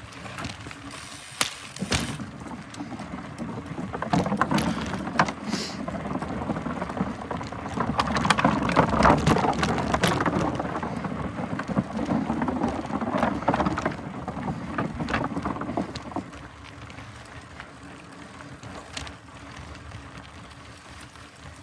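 Mountain bike riding over a dry dirt trail: tyres rolling on dirt, with frequent sharp rattles and knocks from the bike. The noise grows louder about four seconds in and falls away again after about sixteen seconds.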